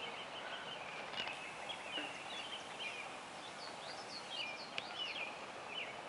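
Outdoor background with a faint steady hiss, and small birds chirping repeatedly in quick, short calls.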